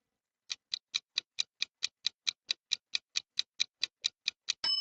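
Countdown timer sound effect: fast, even clock-style ticking, about four to five ticks a second, ending in a bright ding as time runs out.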